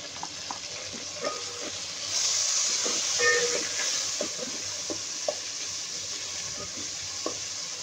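Onions, garlic-ginger paste and green chillies sizzling in hot ghee in an aluminium pot, while a wooden spatula stirs and lightly knocks against the pot. The sizzle grows louder about two seconds in.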